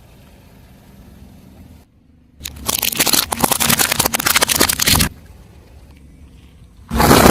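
Car tyre crushing crunchy objects: a dense run of crackling and snapping lasting about two and a half seconds, cutting off abruptly. Just before the end, another loud, steadier crunching burst begins suddenly.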